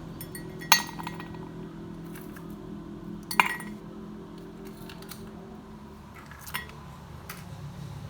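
Glass and metal kitchenware clinking: four sharp clinks, the loudest about a second in and a little before halfway, over a steady low hum.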